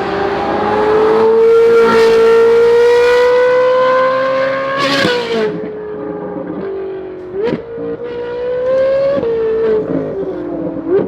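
Ferrari 458's V8 with titanium exhaust and free-flow headers and bypass pipes, accelerating hard in the loudest part, its note climbing steadily for about five seconds. The note then drops sharply at an upshift with a crack, and the engine eases off with two quick rev blips later on.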